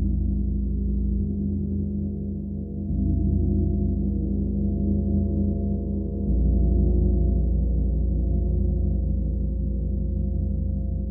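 Gong sounding as a deep, sustained drone of many overlapping steady tones, swelling louder about three seconds in and again about six seconds in.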